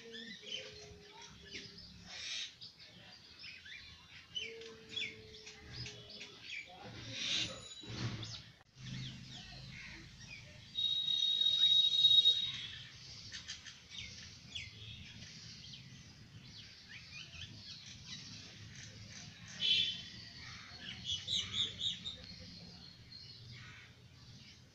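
Birds chirping and calling, with many short chirps throughout. A louder, longer call comes about eleven seconds in and lasts about a second and a half, and a quick string of short calls comes a little past twenty seconds.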